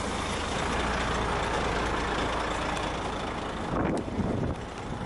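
Truck engine idling, heard from the cab, under a steady rushing noise, with a short sharp sound about four seconds in.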